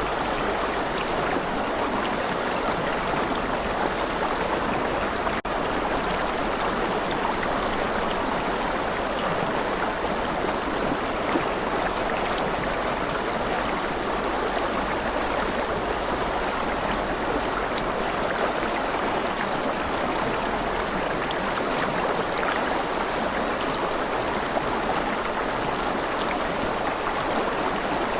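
Rushing river water flowing in a steady, even rush.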